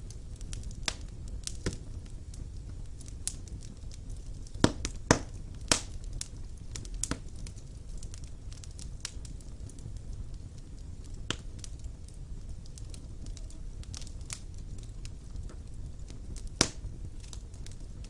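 Wood fire burning in a fireplace: a steady low rush of flames with irregular crackles and sharp pops. A cluster of loud pops falls about five seconds in, and another comes near the end.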